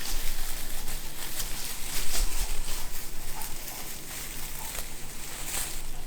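Ribbon being cut and turned over while it is worked onto a Christmas decoration: a steady rustle with many small, irregular clicks and snips.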